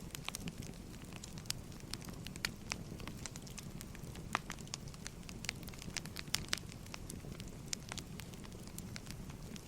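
Wood fire burning, with a steady low rumble and frequent sharp, irregular crackles and pops of burning logs.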